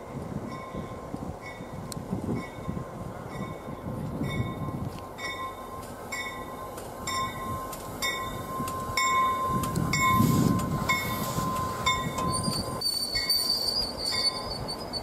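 Commuter trains moving slowly through a station: a low rumble of passenger cars rolling past that swells about ten seconds in, over a bell ringing at a steady beat of about two strikes a second. High-pitched wheel squeal starts near the end.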